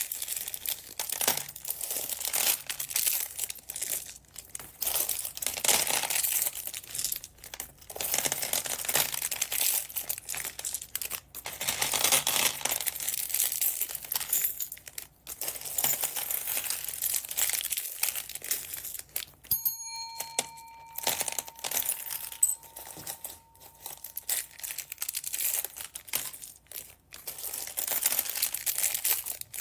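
Plastic bags of beads crinkling and rustling continuously as they are handled, with short pauses. About two-thirds of the way through, a single brief bell-like ring sounds and dies away.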